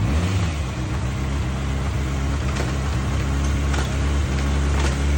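2025 Kawasaki ZX-6R's 636 cc inline-four engine running at idle while warming up, with a brief rise in revs right at the start and a few faint clicks later on.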